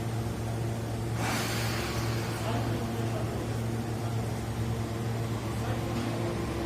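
Diesel railcar running with a steady low hum, a short hiss coming in about a second in.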